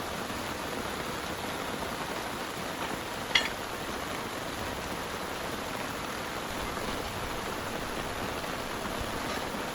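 Steady heavy rain falling. A single sharp click stands out about a third of the way in.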